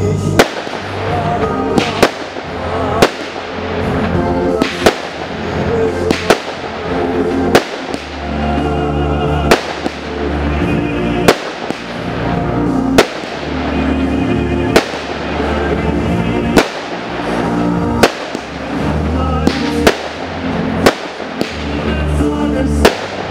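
Fireworks display: sharp bangs of shells going off about every one and a half seconds, over loud music with a steady bass.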